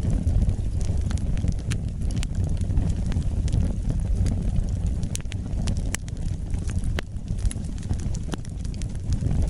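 Wood fire burning in a fireplace: a steady low rumble of flames with sharp, irregular crackles and pops, a few each second.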